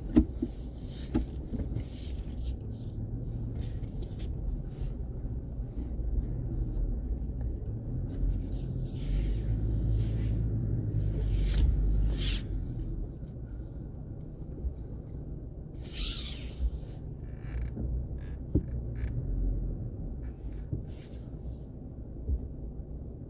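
A truck driving slowly on a dirt road: a steady low engine and road rumble with scattered knocks and creaks from bumps. The rumble grows to its loudest about ten to twelve seconds in, then eases off.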